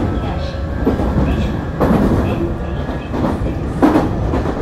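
Nankai 8300 series electric train running on the line: a steady rumble, with irregular clattering knocks of the wheels over rail joints.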